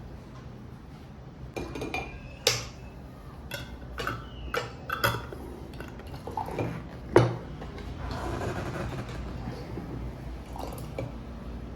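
Dishes and cutlery being handled: a run of sharp clinks and knocks, some ringing briefly, then a short soft hiss about eight seconds in.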